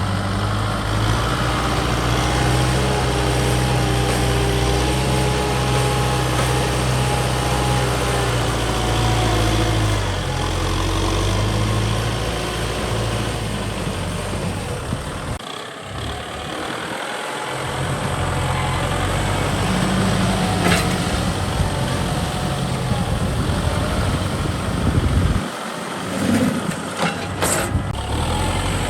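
Kubota ZT 155 DI single-cylinder diesel engine on a two-wheel hand tractor running steadily. Its sound drops away briefly about halfway through and again near the end.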